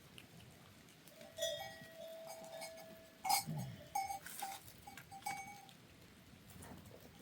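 Goats with neck bells: a long bleat of nearly two seconds, then a run of short metallic bell clanks.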